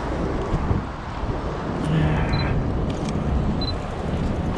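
Steady low rumble of city traffic noise, with a few quick camera shutter clicks in the middle and two short high beeps about a second apart.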